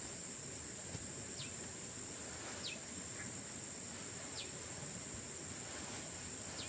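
Steady high-pitched drone of insects in the countryside, with four short falling chirps spaced a second or two apart.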